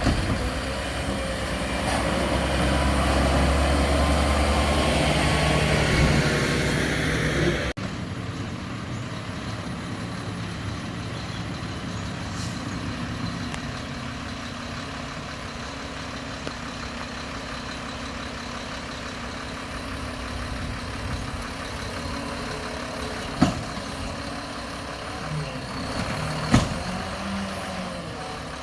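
Mack LEU garbage truck's engine running harder for the first several seconds, with a heavy low rumble, then dropping abruptly to a steady idle about eight seconds in. Two short sharp knocks come near the end.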